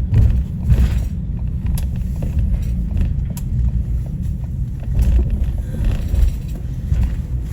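Road vehicle driving: a steady low rumble with a few faint clicks.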